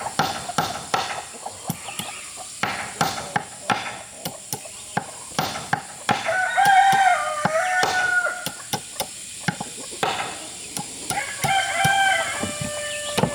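A rooster crowing twice: a long crow about six seconds in and a shorter one near the end, over repeated sharp knocks.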